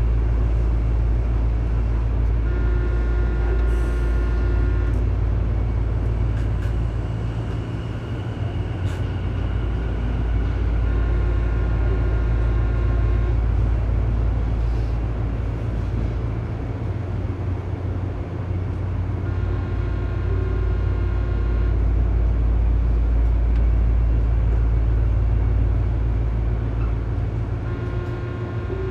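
Tobu 9000-series electric train car standing at a station: a steady low hum from its onboard equipment fills the cabin. A short multi-tone sound comes back roughly every eight seconds, about four times.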